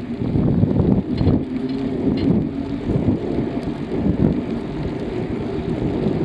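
Wind buffeting the microphone on a moving bicycle: a loud, uneven low rumble.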